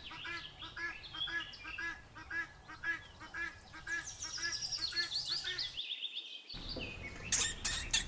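Helmeted guinea fowl calling: short, harsh, repeated calls at two to three a second, with a higher descending chirping partway through. The calls cut off about six seconds in, and a few sharp high clicks follow near the end.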